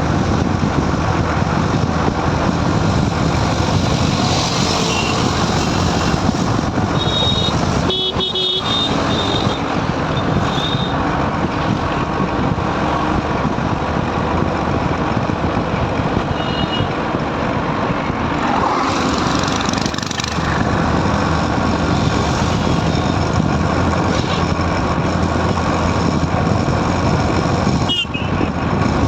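Steady, loud road and wind noise of a motorbike riding along a highway, with short horn toots from traffic about a quarter and again just over half of the way through, and another near the end.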